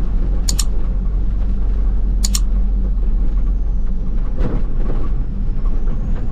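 Car engine and road noise from a moving manual car cruising in fifth gear: a steady low rumble with an even engine hum. Two short, sharp clicks come about half a second and two seconds in.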